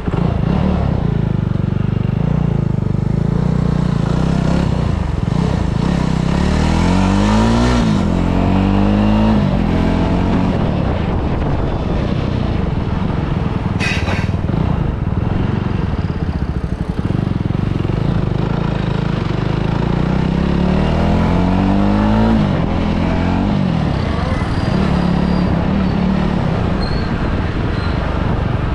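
Motorcycle engine running as the bike is ridden, its pitch rising as it accelerates and then dropping back, twice: about a quarter of the way in and again about three quarters of the way in. A brief sharp sound cuts in about halfway through.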